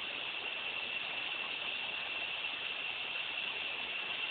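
Steady rushing of a waterfall and its stream, with a steady high-pitched drone over it.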